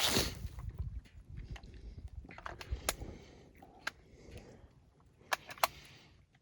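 A scattered series of sharp clicks and knocks, with some rustling at the start and two louder clicks in quick succession about five and a half seconds in.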